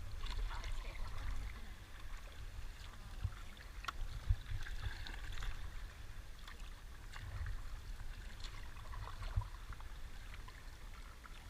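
River water splashing and trickling around rafts, with scattered small splashes and a low, uneven rumble underneath.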